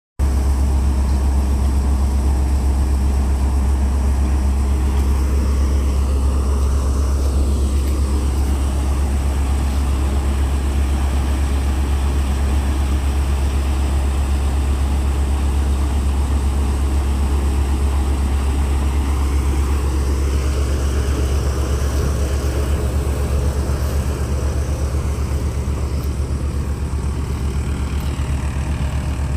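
Tractor engine running steadily under load with a deep, constant drone, while the pearl millet crop is cut.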